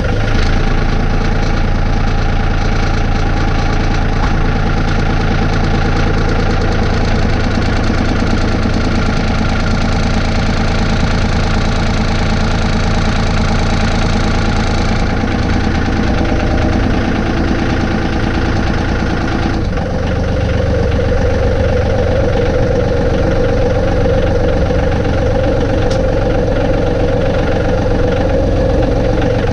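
John Deere 2032R compact tractor's diesel engine running steadily. Its note changes about twenty seconds in.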